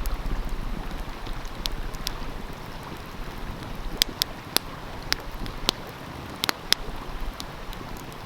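Open wood fire crackling, with a handful of sharp pops in the second half, over the steady rush of a stream. A low rumble of wind on the microphone runs underneath.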